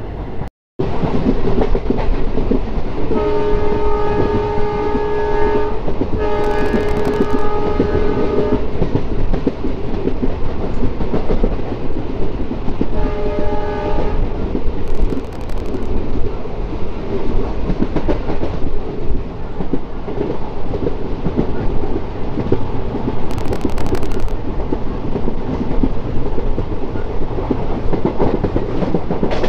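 An express train running at speed, heard from an open coach doorway: a steady roar of running noise and rushing air. The locomotive's horn sounds two long blasts a few seconds in and a shorter blast about halfway through.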